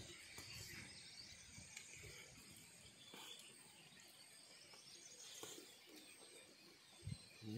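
Near silence: a faint outdoor background hiss with a few soft chewing and mouth sounds from eating by hand, and a low soft thump near the end.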